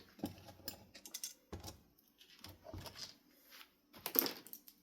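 Cut-off plastic zip-tie scraps being gathered up off a desk: scattered light clicks, rattles and rustles at an uneven pace.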